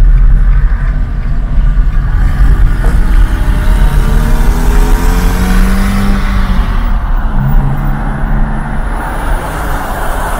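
A car passes close by, its engine note rising and then dropping in pitch about six seconds in, over a heavy low rumble of strong wind on the microphone.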